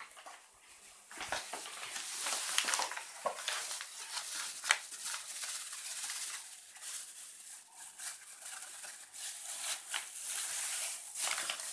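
Irregular rustling and light pattering with a few sharp clicks: things being handled and shaken, with no vacuum motor running.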